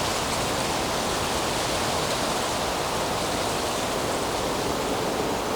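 Steady, even rushing noise of outdoor ambience, with no distinct events in it.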